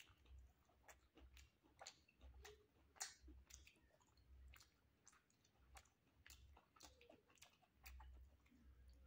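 Faint, close chewing of a mouthful of chicken leg meat: irregular wet mouth clicks and smacks, a couple a second.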